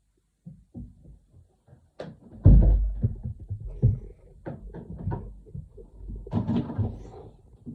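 Irregular knocks and bumps of household objects being handled and set down, the loudest a heavy thump about two and a half seconds in.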